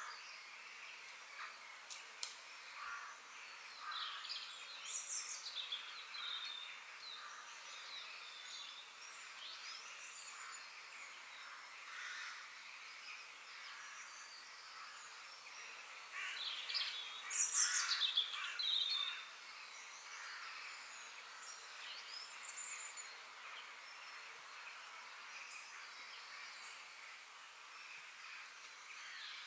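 Several birds chirping and singing in short, sliding calls over a steady faint hiss, with a louder flurry of calls about seventeen seconds in.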